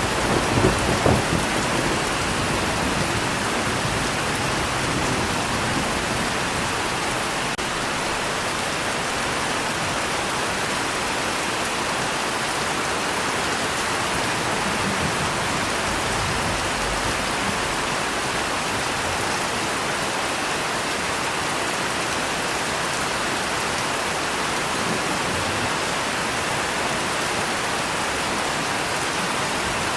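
Steady rain falling, with a low thunder rumble dying away in the first second or two.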